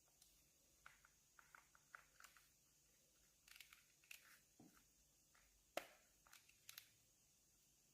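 Near silence with faint scattered clicks and rustles of handling, one sharper click a little before the end.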